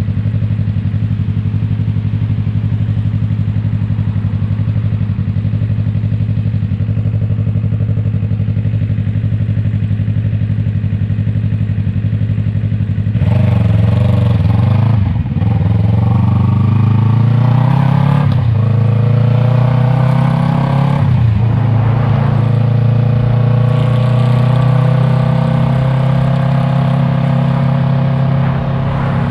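Yamaha MT-03 parallel-twin engine through an Arashi aftermarket exhaust, running steadily at low revs for about the first half. It then gets louder as the bike pulls away, the pitch climbing and dropping three times as it shifts up through the gears, before settling into a steady cruise.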